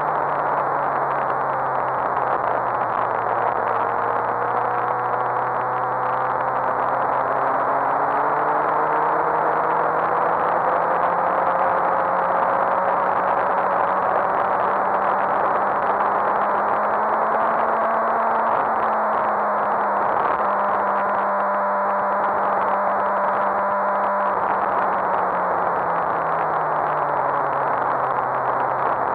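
Suzuki GSX-R1000 K7's inline-four engine running at speed on track, heard under heavy wind rush from a bike-mounted camera. The engine note dips at first, climbs slowly over several seconds, holds, then falls away near the end.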